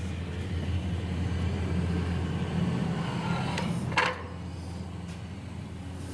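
A steady low machine hum runs throughout. About four seconds in there is one short, sharp noise.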